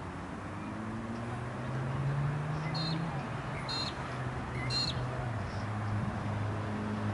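Three short, high bird chirps about a second apart, over the low hum of a vehicle engine that shifts in pitch and grows louder toward the end.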